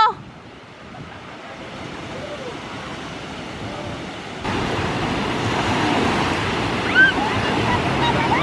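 Sea surf washing on a beach, a steady rushing noise with wind on the microphone, jumping louder about four and a half seconds in.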